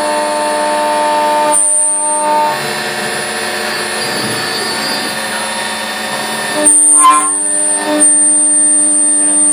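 Mazak Impulse CNC milling machine running with a steady, many-toned whine. The tones shift about a second and a half in, the sound turns noisier for a few seconds, then it changes abruptly with a short clatter around seven seconds before settling into a new steady whine.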